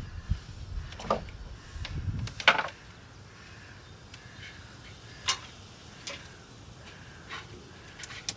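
Light wooden knocks and clicks, about seven, spread unevenly, with the loudest about two and a half seconds in, over a faint low background rumble.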